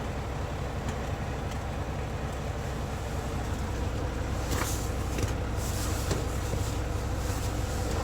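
Work truck's diesel engine idling steadily, heard from inside the cab, with a few faint clicks and rustles about halfway through.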